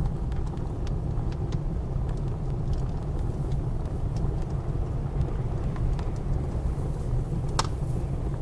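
Low, steady blizzard wind rumble with a wood fire crackling over it: scattered sharp pops, the loudest near the end.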